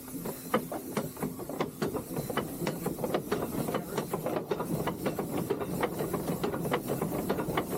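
Three-truck Shay geared steam locomotive taking a little steam at the throttle: a steady hiss of steam with sharp clanks and clicks that come faster as it gets under way, from about two a second to four or five a second.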